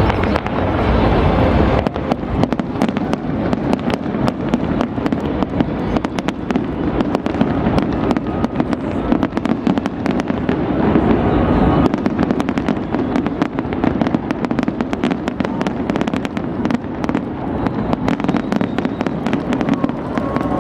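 New Year fireworks display: a dense, continuous volley of rapid bangs and crackles over a steady low rumble.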